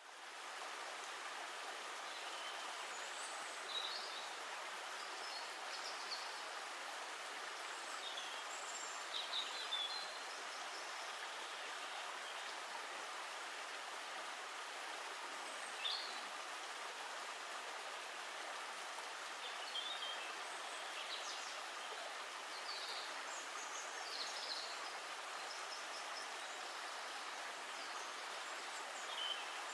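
Steady rushing of running water, with brief high bird chirps every few seconds.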